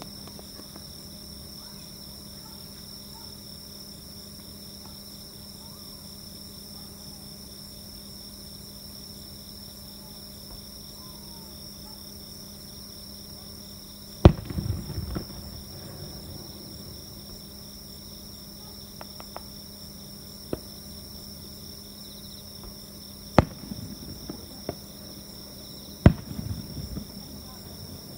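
Steady high chirping of night insects, broken by fireworks: a sharp bang about halfway through followed by a second or two of crackling, a single lighter pop, and then two more bangs with crackling near the end.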